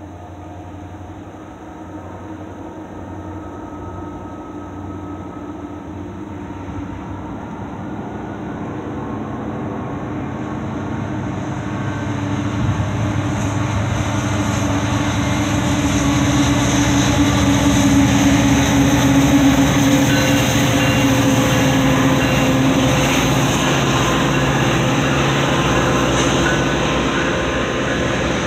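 Two CN six-axle diesel-electric locomotives, an EMD SD70M-2 and an SD75I with 16-cylinder 710 engines, approach and pass under power. The engine sound builds steadily to its loudest about two-thirds of the way in, then gives way to the steady rumble of freight cars rolling by.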